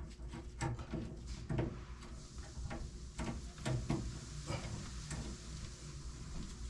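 Scattered light clicks and knocks of parts and tools being handled, over a low steady hum, with a faint hiss from about two seconds in.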